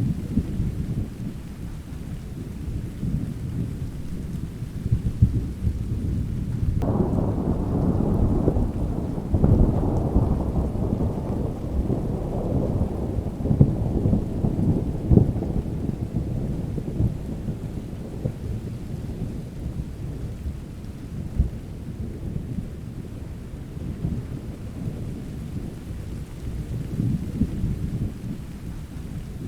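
Steady rain with low, continuous rumbling thunder. About seven seconds in a thunderclap breaks and rolls on, fading away over the next ten seconds or so.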